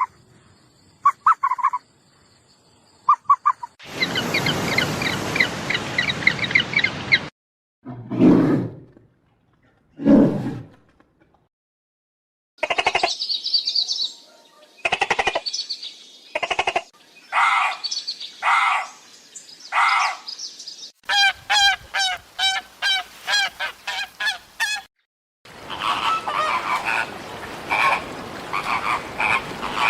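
Different animal calls spliced one after another, mostly bird calls and chirps. Among them are two low calls and a rapid, evenly spaced run of repeated calls.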